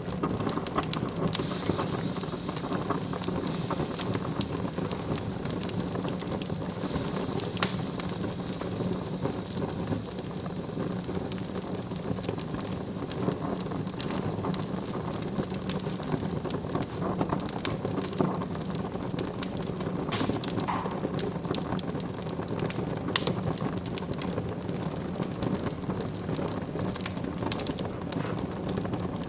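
Wood fire in a fireplace crackling steadily, with frequent sharp pops and a louder snap about eight seconds in.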